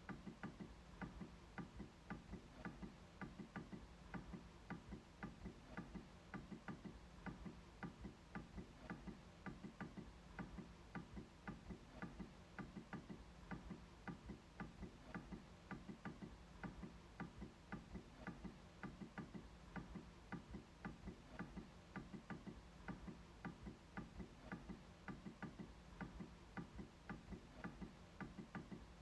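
MacBook trackpad being clicked over and over, faint clicks in a steady rhythm of about two to three a second.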